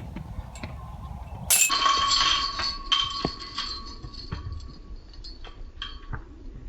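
A disc strikes a disc golf basket with a sharp metallic clang about a second and a half in. The chains and metal then jingle and ring, fading over the next few seconds, with a low wind rumble on the microphone underneath.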